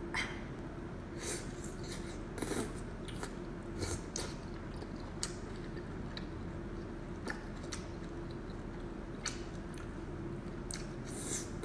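Close-up eating sounds: a person biting and chewing skewered fried food, with scattered small clicks and smacks, over a faint steady hum.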